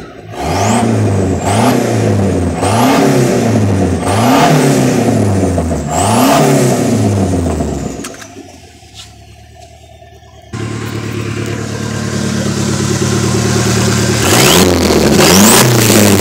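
Turbocharged 2.3-litre four-cylinder engine of a Merkur XR4Ti revved hard about five times in quick succession through an open downpipe with no exhaust fitted, each rev carrying a rising turbo whistle. After a quieter spell of a couple of seconds the engine runs on loudly, with another rev near the end.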